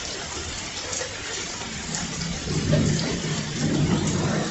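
Heavy rain pouring down in a steady rushing downpour. A louder low rumble swells through the second half.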